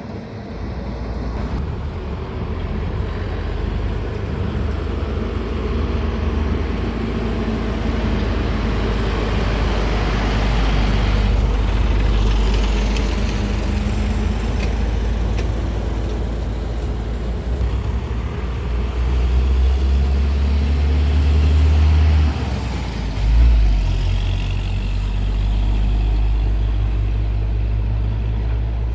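Motor vehicle on the road: steady engine rumble and road noise, with a brief louder surge about 23 seconds in.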